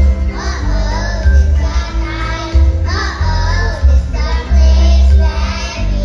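Loud music with a heavy, pulsing bass and children's voices singing over it.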